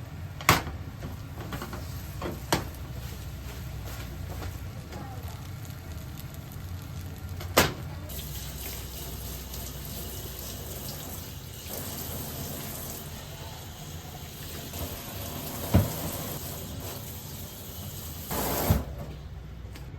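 Water running from a tap into a sink, with a handful of sharp knocks and clatters scattered through it and a steady low hum underneath.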